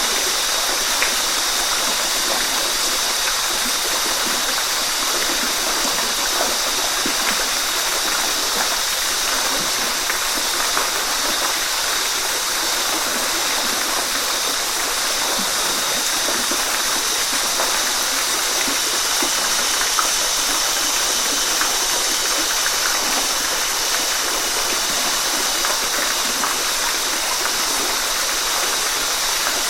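Waterfall: a steady, even wash of falling water, with small splashes and drips standing out here and there.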